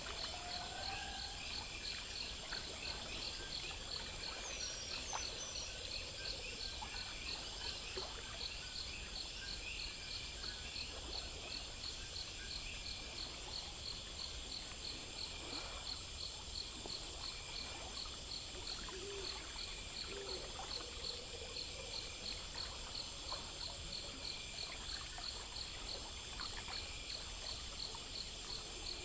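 Night chorus of crickets and other insects: a steady rapid chirping pulse over a continuous high-pitched trill, with a few faint, short low calls now and then.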